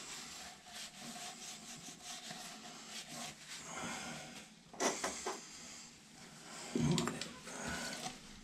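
Rubbing and scuffing as wet, slippery toilet parts are handled, with a sharp knock about five seconds in and a duller, heavier knock about two seconds later.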